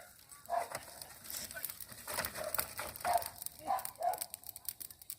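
Bonfire crackling and popping, with a dog barking several times.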